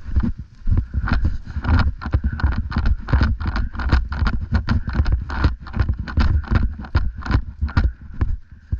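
Quick, irregular footsteps and thuds on outdoor ground, about three to five a second, as of a player moving fast, with clicks and knocks from gear carried close to the microphone.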